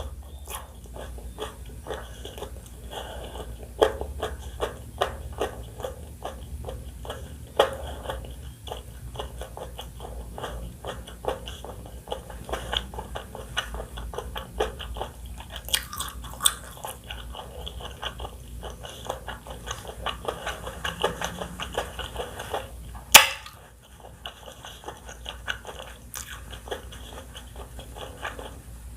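Close-miked eating sounds: someone biting and chewing crunchy food, with rapid irregular crunches and mouth sounds. One much louder sharp crunch or click comes about three-quarters of the way through.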